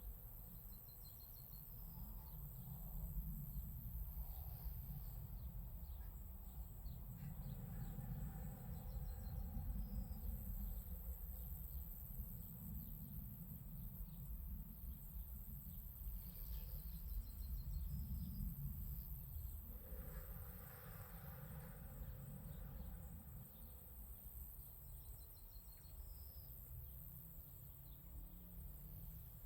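Quiet outdoor ambience of insects chirping in short trills every few seconds, over a low rumble that swells and fades, like wind on the microphone.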